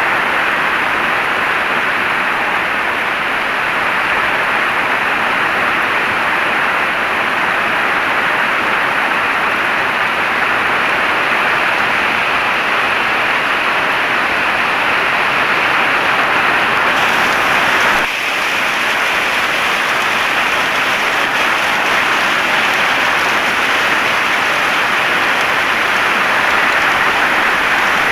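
Heavy rain falling in a steady, dense hiss, with a brief dip about two-thirds of the way through.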